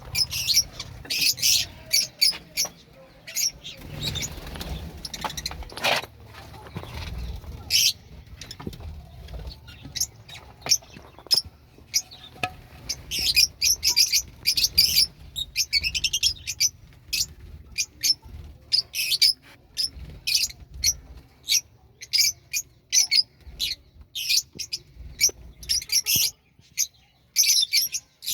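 Budgerigars chirping and chattering: many short, high chirps in quick, irregular succession.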